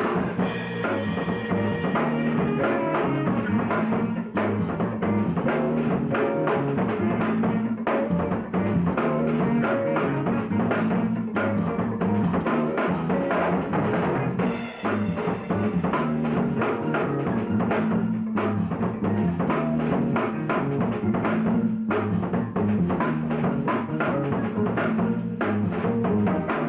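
A band rehearsing an instrumental tune: a drum kit with bass drum and snare under a repeating bass line and other instruments.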